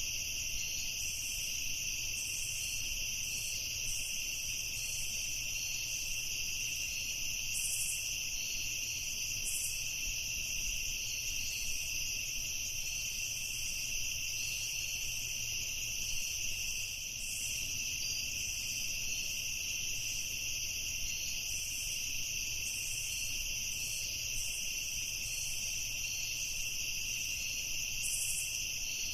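Night ambience of crickets trilling in a steady, unbroken chorus, high-pitched, with scattered brief higher chirps over it.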